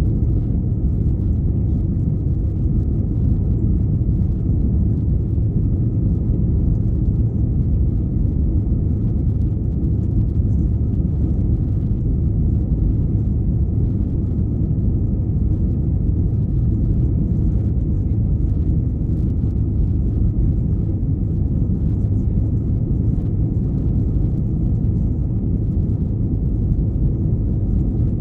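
Steady low rumble of an Airbus A321-211's cabin heard from a rear window seat: engine and airflow noise with a faint steady whine, holding even throughout.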